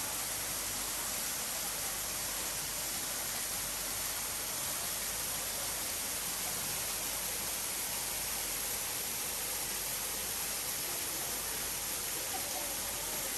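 Steady rushing of falling water from a waterfall, an even wash of noise that does not change.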